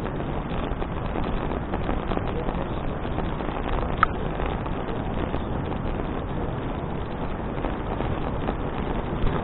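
Steady rush of riding wind buffeting an action camera's microphone on a moving bicycle, with one short sharp click about four seconds in.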